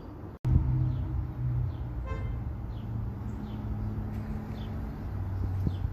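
A vehicle engine running steadily with a low hum, while small birds chirp about once a second. A short horn-like toot sounds about two seconds in.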